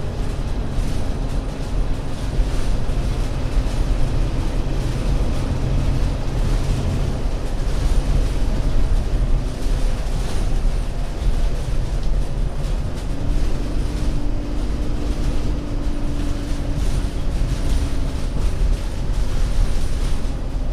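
Euro 6 diesel engine and drivetrain of an Alexander Dennis Enviro500 MMC double-decker bus running under way with a steady low rumble. About two-thirds of the way through, a whine rises in pitch, holds for several seconds, then drops away near the end.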